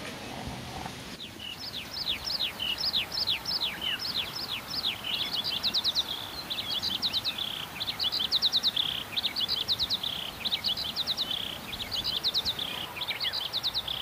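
A songbird singing from about a second in, in repeated quick phrases of sharp, high, downward-sliding notes and rapid trills, over a steady outdoor hiss.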